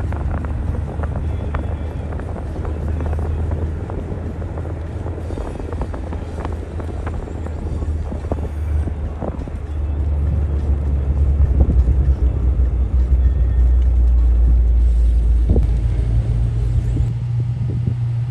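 Car engine running with a steady low drone that grows louder about ten seconds in and steps up to a higher pitch near the end, with scattered clicks and knocks over it.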